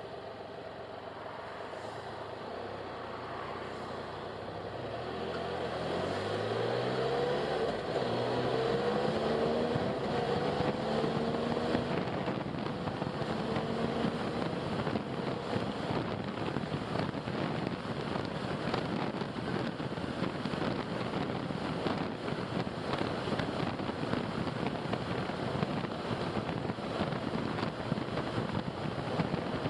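Car engine accelerating, its pitch climbing in several rising steps as it goes up through the gears, then giving way to a steady rush of road and wind noise at cruising speed.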